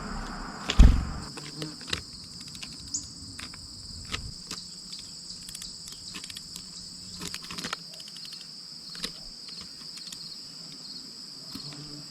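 Steady chorus of crickets or similar insects, a high, continuous trill. Scattered sharp clicks and taps throughout, and one loud low thump about a second in.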